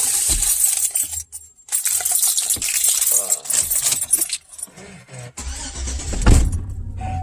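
Keys jangling for about four seconds. Then a Chevrolet Silverado pickup's engine cranks and starts about five and a half seconds in, rising briefly before settling into a steady idle.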